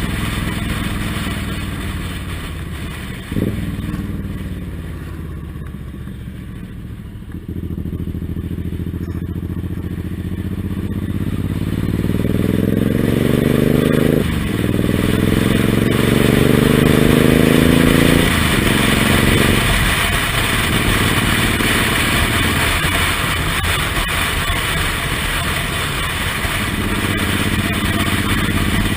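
Suzuki Intruder M1800R's V-twin engine heard on board while riding. The engine note climbs in pitch as the bike accelerates and drops sharply at gear changes a few seconds in, about halfway and again soon after, then settles to a steady cruise. A steady wind hiss runs underneath.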